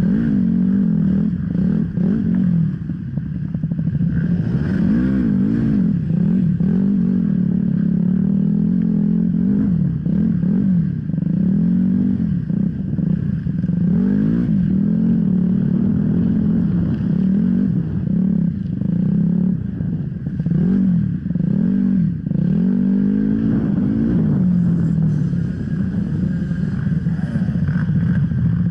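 Off-road enduro motorcycle engine being ridden hard, its revs rising and falling over and over as the throttle is opened and closed.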